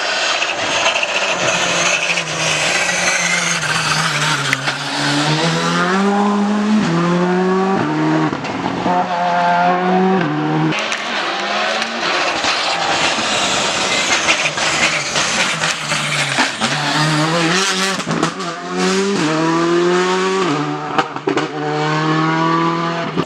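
Rally car engine accelerating hard through the gears. Its pitch climbs and then drops back at each upshift, over two runs of shifts, with tyre and road noise beneath.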